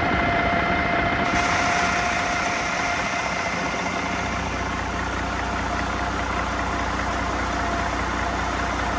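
2014 Detroit Diesel DD13 12.8-litre inline-six diesel engine running steadily, with a steady high whine over the engine noise.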